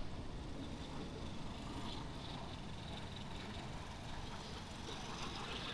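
Steady, low city street ambience: a distant traffic rumble with no distinct events.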